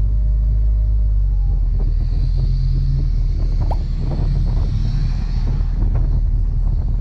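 Boat's outboard motor running under way, a loud, steady low rumble.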